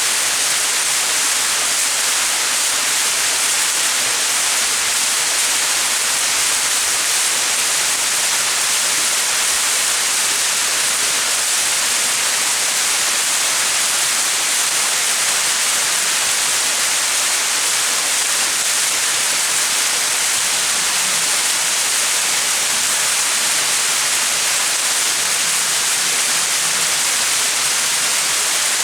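Small mountain waterfall: water falling and splashing in a steady, even hiss, brightest in the high end.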